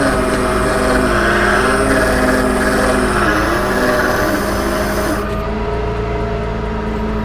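Cummins diesel engine of a Ram 5500 bucket truck running steadily while it drives the Versalift boom's hydraulics, the boom moving out to its side reach. A hissing layer over the engine hum cuts off about five seconds in, as the boom motion stops, and the engine keeps running.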